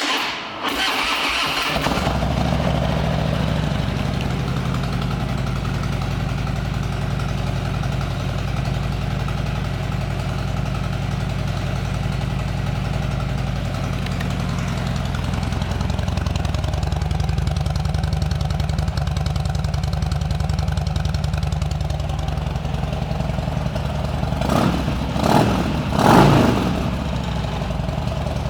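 2014 Harley-Davidson Street Bob's V-twin engine being started: a brief crank of the starter, catching within about two seconds and settling into a steady idle. Near the end the throttle is blipped twice in quick succession, and it drops back to idle.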